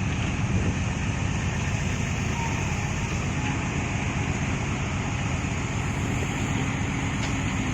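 Dump truck's diesel engine running steadily as the truck is driven, a constant low rumble with road noise.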